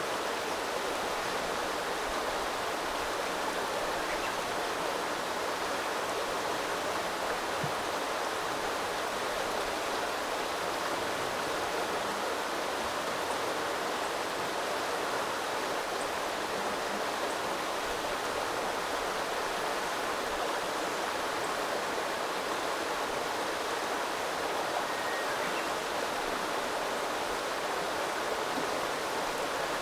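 Small river flowing, a steady rush and babble of water.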